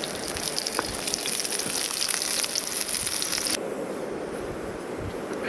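Chicken frying in a cast iron skillet over a campfire: a steady sizzling hiss with the fire crackling, cutting off abruptly about three and a half seconds in.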